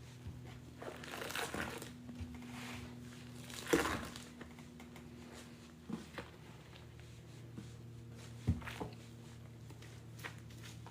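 A sponge loaded with pine-scented cleaning paste being squeezed and worked, giving crackly, crinkling squishes in irregular bursts, the loudest about four seconds in.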